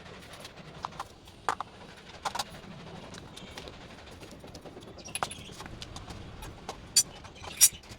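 Irregular light clicks and knocks, about half a dozen in all, the sharpest two near the end, over a low steady hiss.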